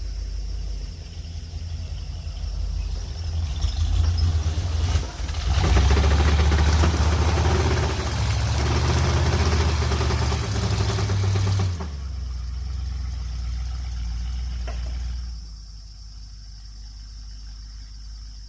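Jeep J20 pickup loaded with crushed concrete, its engine working hard as it climbs a bank. It builds up over the first few seconds and is loudest for about six seconds in the middle, with a rush of noise over the engine rumble. It then drops suddenly to steadier, quieter running and eases off again near the end. The driver says the transfer case doesn't like being under the load.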